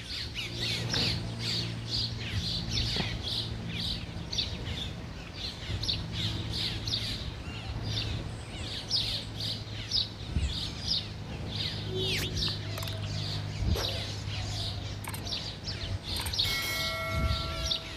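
Small birds chirping over and over, about two to three short high chirps a second, with a steady low hum underneath. A short steady tone sounds near the end.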